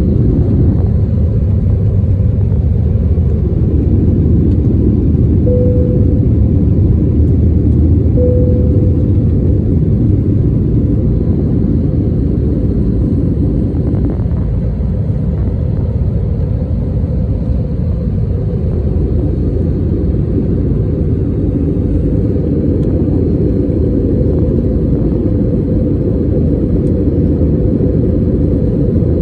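Airliner after takeoff, its jet engines and airflow making a steady low rumble. Two brief steady tones sound over it, about five and eight seconds in.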